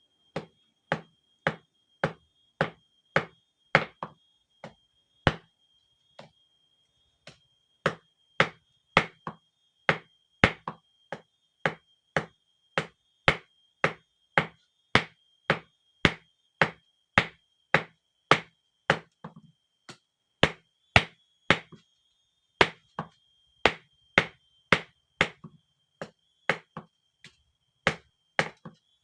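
Hand hammer striking steel on an anvil, forging a blade from bearing steel. The blows come in a steady rhythm of about two a second, with a short pause a few seconds in, over a faint steady high whine.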